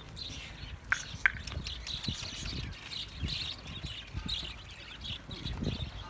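Small birds chirping steadily, with two sharp clicks about a second in.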